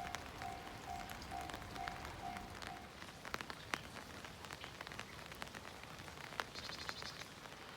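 Rain falling, with a steady patter and sharp drops ticking close by. An electronic beeper sounds short even tones about twice a second, then stops about three seconds in. A brief rapid high trill comes near the end.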